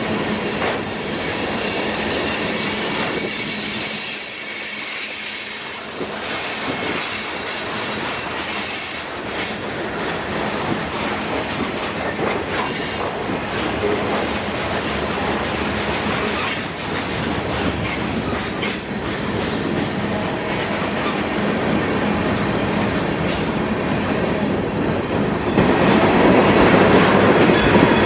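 CSX manifest freight cars rolling past, a steady rumble and clatter of steel wheels on rail with faint high squeals, louder near the end.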